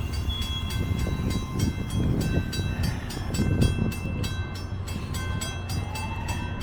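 Metra commuter train running at the station with a steady low rumble, while a bell dings rapidly, about four strokes a second. A faint rising whine comes in over the last two seconds.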